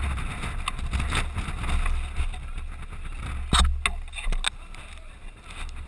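Wind and handling rumble on the microphone of a camera mounted on an airsoft gun. A cluster of four or five sharp clicks comes just past the middle, with a few fainter clicks earlier.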